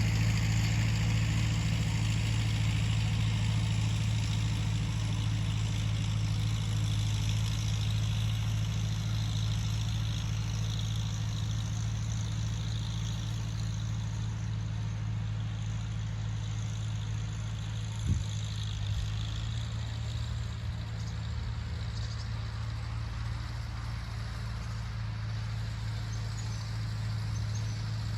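Tractor engine running at a steady speed, with one sharp knock about eighteen seconds in.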